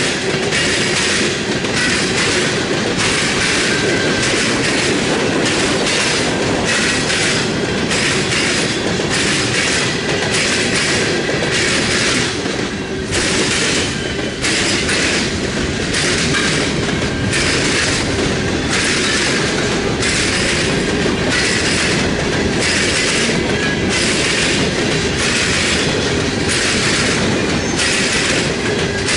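CSX freight cars rolling past, their wheels clattering over rail joints in a steady rhythm a little over once a second, with a faint high wheel squeal.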